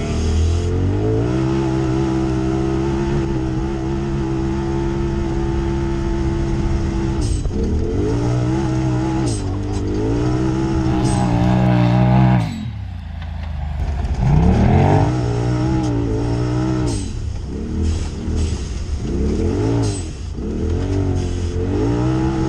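Turbocharged side-by-side (UTV) engine under throttle, holding a steady note for several seconds, then revving up and down again and again. The engine note drops away sharply about twelve seconds in before climbing again, with quick rev surges near the end.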